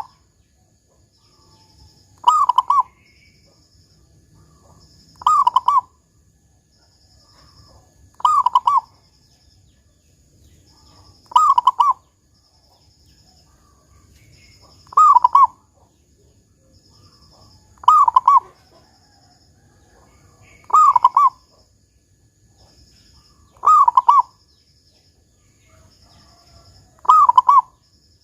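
Zebra dove (perkutut) cooing with a deep 'kung' note, one short phrase repeated about every three seconds, nine times. A faint high pulsing trill sounds between the phrases.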